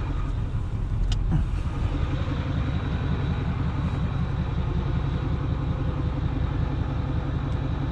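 A vehicle engine idling steadily with an even low pulse, with one short sharp click about a second in.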